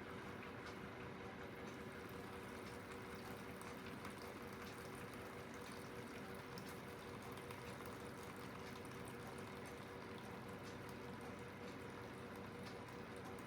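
Aidoo 1 kg mini washing machine running mid-cycle: its direct-drive motor gives a steady hum with two fixed tones, under a constant wash of moving water.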